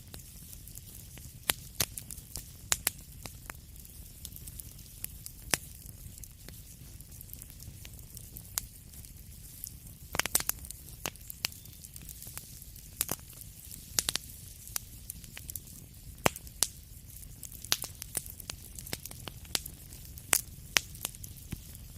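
Wood fire crackling: irregular sharp pops and snaps over a steady low rumble and faint hiss of the flames, with a quick flurry of pops about ten seconds in.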